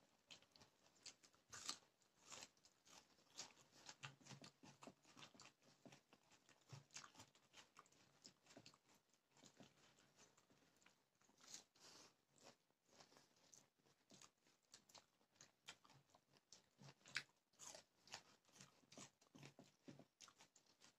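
A person eating, chewing and crunching mouthfuls of food close to the microphone: faint, irregular small crunches and clicks throughout.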